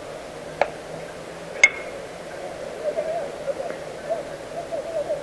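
Two sharp cracks of baseball play about a second apart, the second with a brief ring. After that, faint voices call out from across the field.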